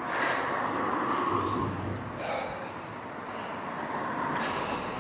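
A cyclist breathing hard while riding, with a breath swelling about every two seconds over a steady background rush.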